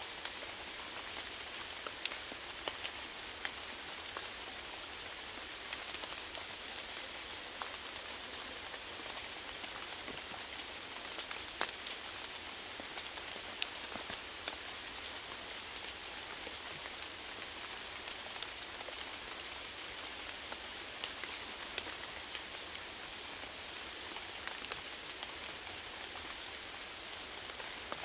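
Steady rainfall: an even hiss of rain with scattered sharper taps of individual drops striking a surface.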